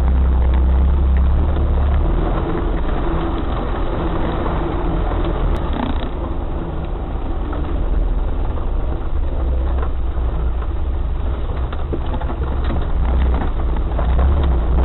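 Off-road 4x4 vehicle driving, its engine and drivetrain a loud, steady low drone with small knocks and rattles scattered through it.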